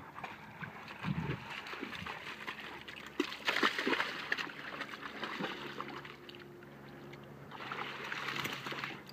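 Pond water splashing and sloshing as a dog dives and paddles for rocks, loudest about three and a half seconds in and again near the end. A faint steady low hum sets in about halfway through.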